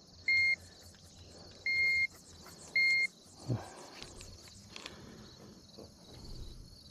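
Digital fish scale beeping three times, a short beep then two longer ones, while a bass is being weighed.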